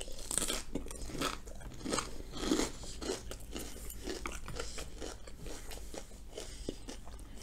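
Chewing a mouthful of Korean potato pancake close to a microphone, with irregular crunches that are strongest in the first three seconds.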